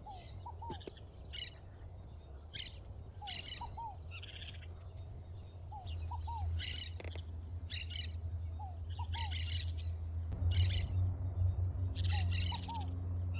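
Wild birds calling: short bursts of high chirps about once a second, with a repeated pair of lower whistled notes. A steady low rumble underneath grows louder about ten seconds in.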